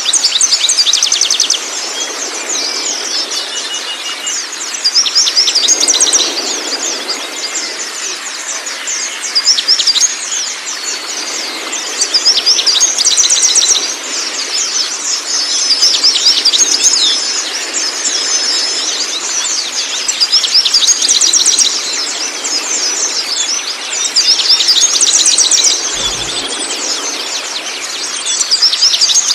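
A songbird's song repeating in loud bursts of rapid high chirps and trills, one about every four seconds, over the steady rush of flowing water. There is a brief low thump near the end.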